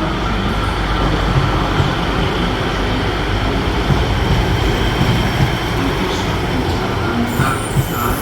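Diesel train moving through the station platform with a steady, loud rumble. A high-pitched wheel squeal sets in near the end.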